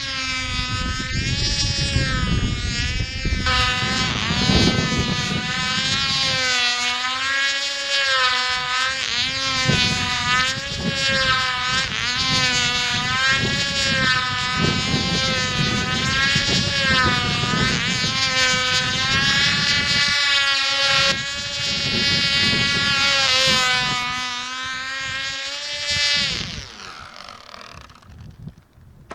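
Tiny .049 model airplane engine running at high, buzzing revs as the control-line plane circles, its pitch swinging up and down once each lap. Near the end the pitch drops and the engine sound fades as it cuts out.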